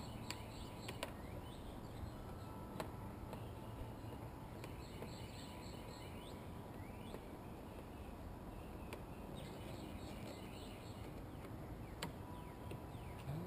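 Birds chirping in the background, with a few sharp clicks now and then.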